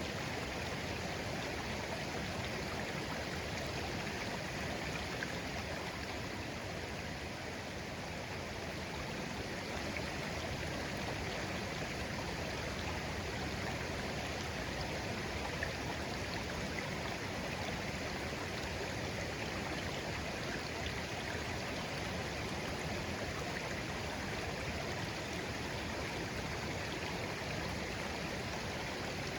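A shallow, clear stream flowing and babbling steadily over stones, with small splashes and gurgles in an even rushing wash.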